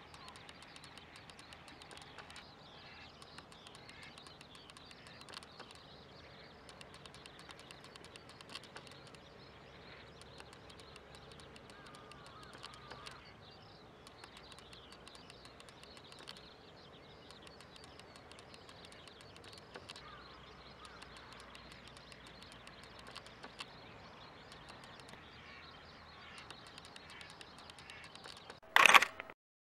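Wild birds calling and chirping over a steady faint background noise, with short scattered calls throughout. Near the end there is a single loud, harsh sound lasting about half a second.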